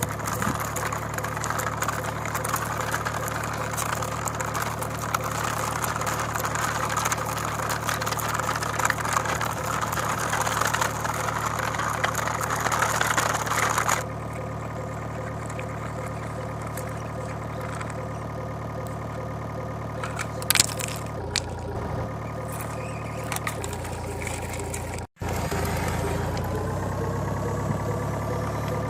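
Vehicle engines running and idling steadily, with the engine sound switching abruptly about halfway through and again later. There is a brief cut-out of all sound near the end, after which an engine note rises slightly in pitch.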